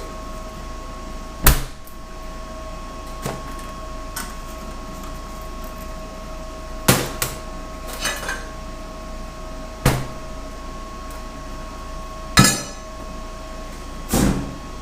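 About eight sharp metal knocks and clanks, spaced irregularly a second or more apart, one of them ringing briefly, over a steady shop hum.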